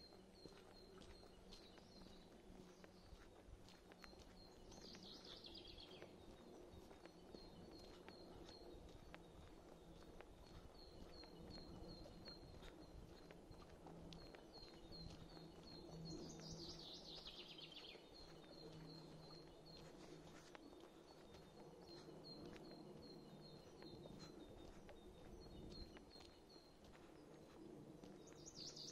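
Faint songbirds: a run of short high chirps goes on steadily, and a descending trill, falling in pitch, comes three times about twelve seconds apart. Faint footsteps on a path sound under them.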